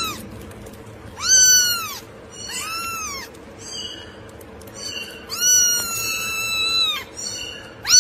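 Kitten meowing repeatedly in high, thin, arching mews, about one a second, with one long drawn-out meow around the middle.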